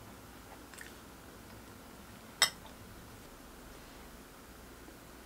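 Quiet room tone with soft chewing of cake, and one sharp click about halfway through.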